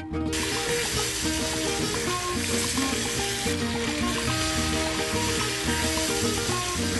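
Pork offal sizzling as it sautés in hot oil in a pot, stirred with a spoon, with a steady hiss. Background music with sustained notes plays underneath.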